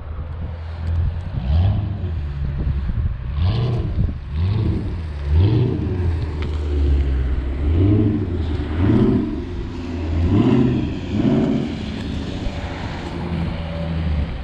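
Dodge Charger Scat Pack's 6.4-litre HEMI V8 revved hard again and again, its pitch rising and dropping about eight times, during a burnout on worn rear tyres that spin without grip on wet pavement.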